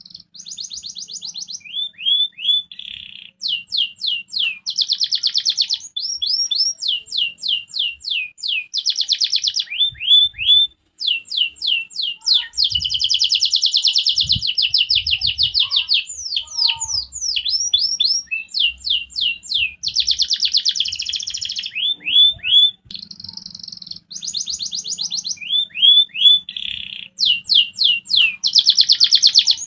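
Canary singing a long, varied song: rapid trills, runs of quick downward-sweeping whistled notes and buzzy rolls, with short pauses between phrases. It is the kind of canary song played to get rival canaries to answer quickly.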